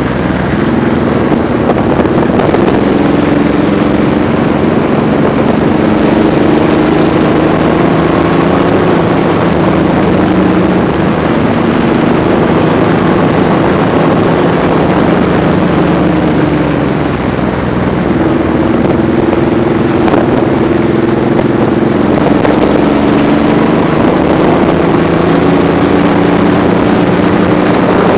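Honda VTX V-twin motorcycle engine running under way, its pitch rising and falling a little with the throttle several times, over steady wind noise on the microphone.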